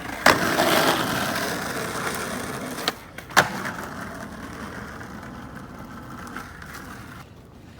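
Skateboard wheels rolling over wet pavement, the rolling noise slowly fading as the board moves away. There is a knock just after the start and a single sharp clack of the board about three and a half seconds in.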